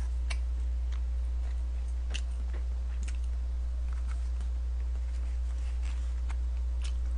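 Faint chewing and mouth sounds with a few light clicks of disposable wooden chopsticks against a plastic lunch-box tray, over a steady low hum.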